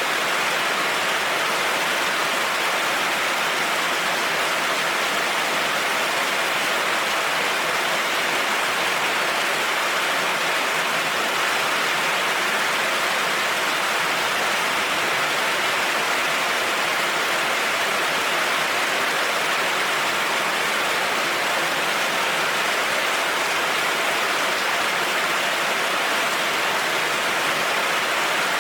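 Heavy rain falling steadily, an even hiss with no change or thunderclaps.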